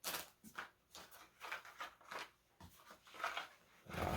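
Irregular rustles and light knocks of firework packaging being handled as items are lifted out of a cardboard box.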